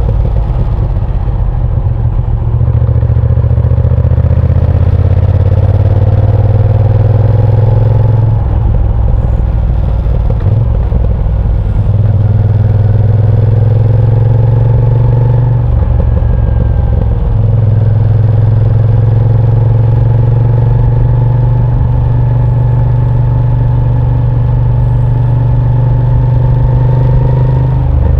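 Moto Guzzi V7 Sport's transverse V-twin engine under way. Its pitch climbs steadily and breaks off about three times as the rider shuts the throttle and changes gear, then it pulls up again.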